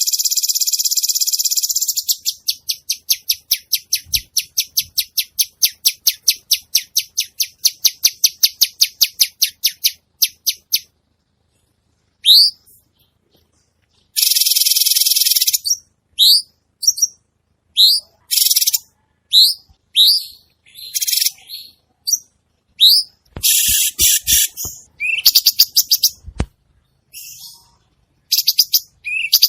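Cucak cungkok bulbul singing hard: a fast high trill that breaks into a long run of quick repeated notes, then a string of separate rising whistled notes and short chattering bursts about once a second. A few faint knocks sound in the second half.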